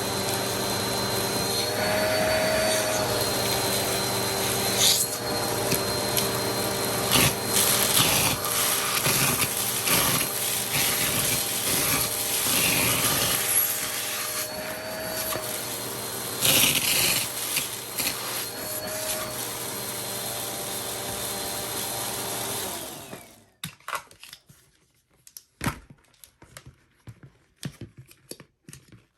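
Vacuum cleaner motor running with an attachment tool, its pitch briefly rising three times, with sharp clicks and rattles. About 23 seconds in the motor is switched off and winds down, leaving scattered clicks and knocks.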